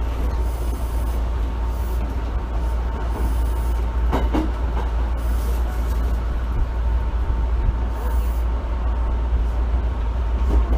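Osaka Municipal Subway 66 series train car running, heard from inside the car: a steady rumble of wheels on rails with a faint steady whine, and a short clatter about four seconds in.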